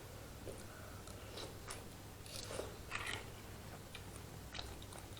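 A person eating instant curry noodles close to the microphone: soft wet chewing with small mouth clicks and smacks. The loudest, wettest stretch comes about two and a half to three seconds in.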